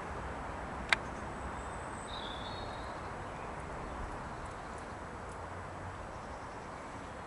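Steady outdoor background rumble that slowly fades, with a single sharp click about a second in and a couple of short, high bird chirps just after it.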